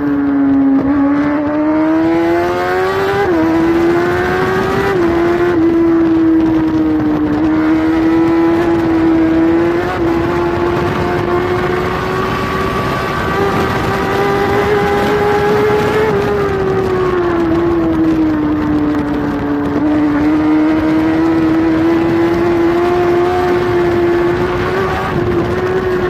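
Onboard sound of a Kawasaki superbike's inline-four engine at racing speed, held high in the revs. There are quick gear changes in the first few seconds; the pitch eases down a little past the middle and then climbs again, with a steady rush of wind.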